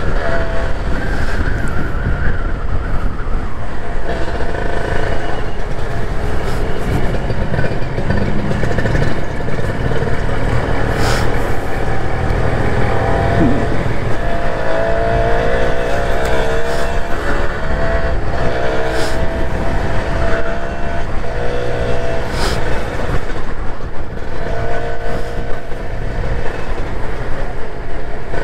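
Motorcycle engine running under way through city traffic, its pitch rising and falling several times as the rider opens and closes the throttle, over a steady low rumble.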